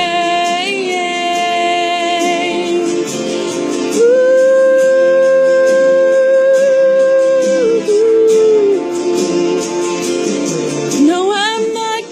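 A woman singing long held notes without words over a country backing track. The loudest note is held steady for about four seconds, and near the end the voice slides through quick runs of notes.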